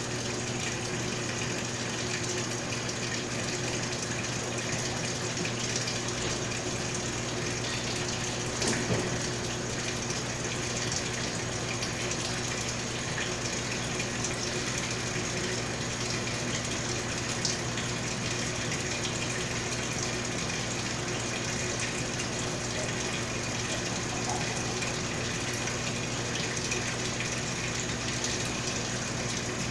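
Mabe Multipratica top-load washing machine filling its tub with water: a steady rush of water with a steady low hum under it, and one brief knock about nine seconds in.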